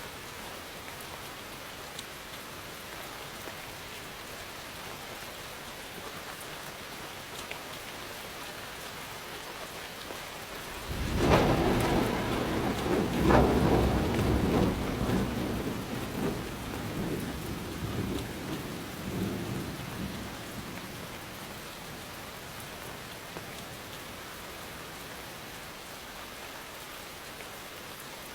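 Steady rain falling, with a clap of thunder about 11 seconds in: a sudden loud crack followed by rolling rumble that fades away over about ten seconds.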